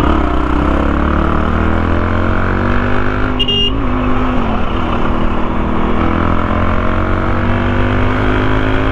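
Motorcycle engine running steadily under way, its pitch dipping briefly and then rising slowly as it pulls. There is a short high beep about three and a half seconds in.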